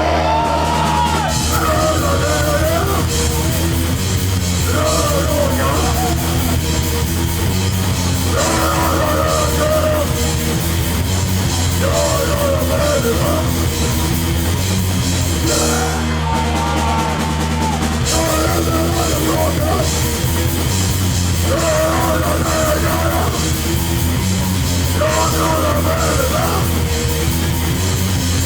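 A hardcore punk band playing live and loud, with distorted electric guitars, bass and a drum kit. A guitar phrase repeats about every two seconds, and there is a brief break in the drums and bass about halfway through.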